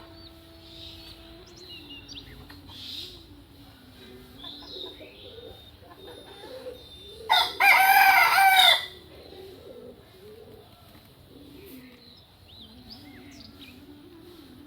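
A rooster crowing once, about halfway through: a single loud call lasting about a second and a half. Faint chirping of small birds and a low wavering bird call sound throughout.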